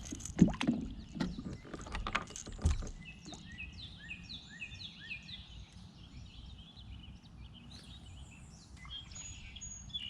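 A few sharp knocks and clatters in the first three seconds, then a songbird singing a long run of quick, falling whistled notes.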